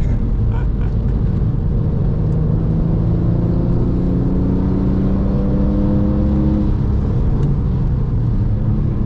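Porsche 996.2 Carrera 2's flat-six with a valved sport exhaust, heard from inside the cabin, pulling up through the revs in one slow climb from about two seconds in, then easing off near seven seconds. A steady low rumble of road and tyre noise runs underneath.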